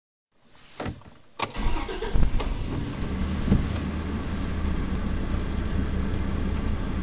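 Car engine idling steadily, heard from inside the cabin. Two sharp knocks come in the first second and a half, and the low engine note is loud and steady from then on.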